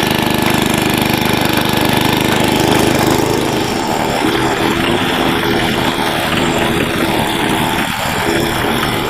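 The 8 hp Briggs & Stratton single-cylinder engine of a 1990 Troy-Bilt Horse rear-tine tiller running while tilling garden soil. Its sound turns rougher and more uneven in the low end about three and a half seconds in.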